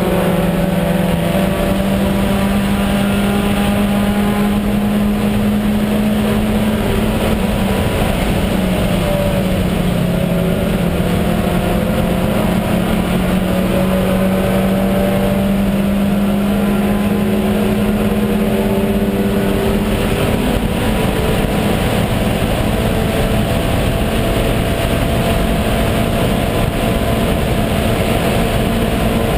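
VW Jetta race car's engine running hard at near-steady high revs, heard from inside the stripped, roll-caged cabin over loud road and wind noise. Its pitch dips briefly about eight seconds in and then climbs slowly.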